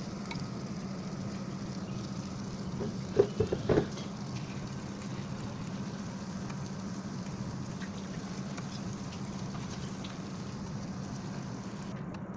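Chicken frying in hot oil: a steady crackle over a low hum, with a few quick knocks about three seconds in.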